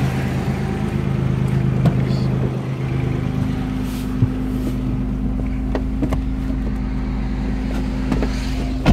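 A 1990 Toyota 4Runner's V6 idling with a steady hum as the driver's door is opened and someone climbs into the seat, with a few light clicks and a louder clunk at the end.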